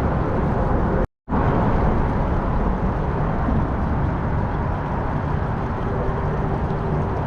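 Steady rushing noise of a motor-driven kayak under way, with wind and water on the microphone. It cuts out completely for a moment about a second in.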